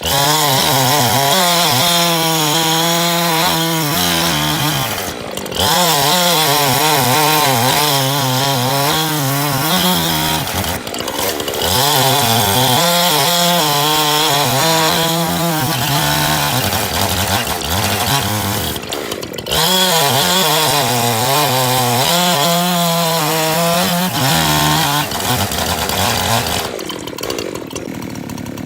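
Chainsaw at high revs cutting jarrah firewood, its pitch wavering as it works through the wood. It eases off briefly three times, about 5, 11 and 19 seconds in, and near the end drops to a quieter, lower running.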